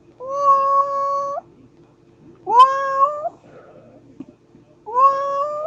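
Domestic cat meowing three times, about two seconds apart; each meow rises in pitch at the start and then holds level for up to a second.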